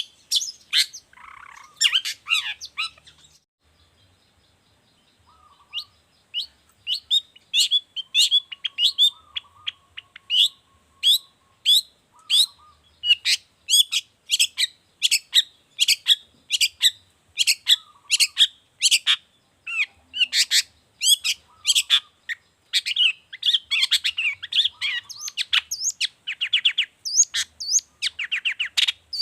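Long-tailed shrike singing in full voice: fast runs of sharp, high chirping notes, broken by a pause of about two seconds near the start.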